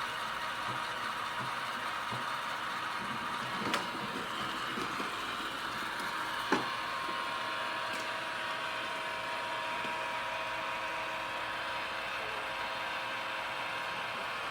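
Roomba robot vacuum running: a steady whir with a faint held tone, broken by two short knocks at about four and six and a half seconds in.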